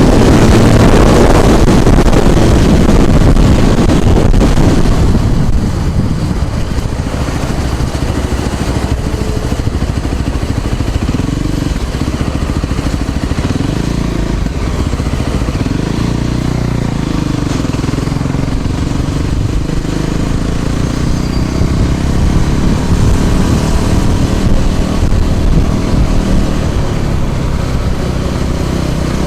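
Riding noise from a moving scooter: a steady low rush of wind on the microphone and road noise, louder for the first five seconds and then steady.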